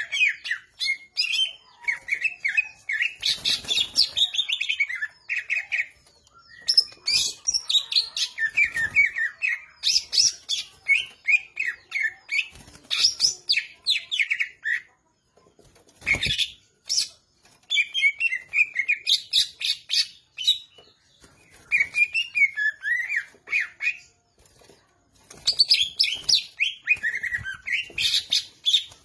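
Cucak ijo (green leafbird) singing in vigorous phrases of rapid, sliding whistles and chattering notes, broken by short pauses. A few sharp clicks are mixed in, the loudest about halfway through.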